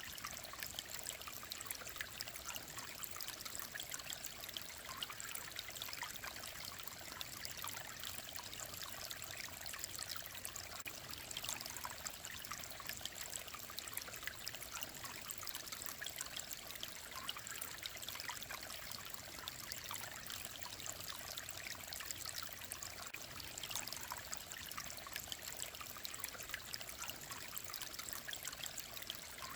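Mountain stream running and trickling, a steady, even babble of water.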